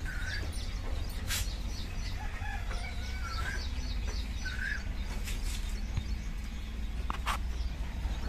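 Birds calling: quick runs of short high chirps with a few louder, lower calls, over a low steady rumble, with a few sharp clicks.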